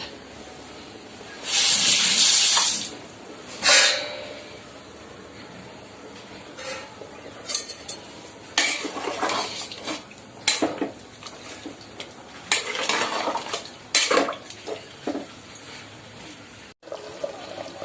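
Cooking on a stove: a loud hiss about a second and a half in, then a metal spoon repeatedly scraping and clinking against the cooking pot as the curry is stirred.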